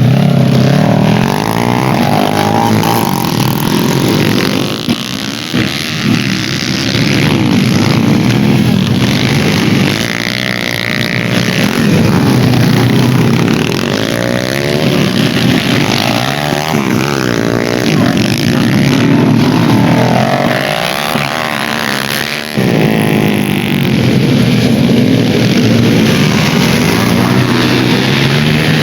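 Dirt bike engines revving hard as the bikes race around the track, their pitch climbing and dropping again and again as they accelerate and shift, several bikes overlapping.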